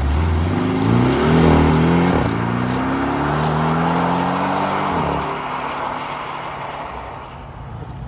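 A sports car's engine accelerating hard away, its pitch climbing and dropping back at two or three gear changes, then fading as the car pulls away.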